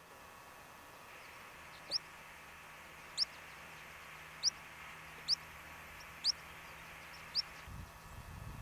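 A songbird giving six short, sharp rising chirps, one about every second, over a faint steady hiss. A brief low rumble comes near the end.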